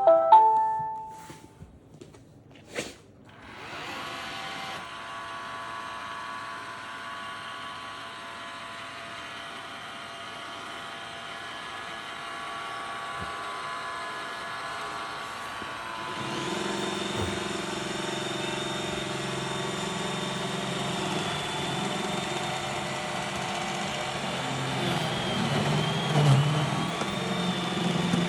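iRobot Roomba robot vacuum: a short pitched beep and two clicks, then its motors start with a steady hum. About 16 seconds in, it gets louder with a lower drone added.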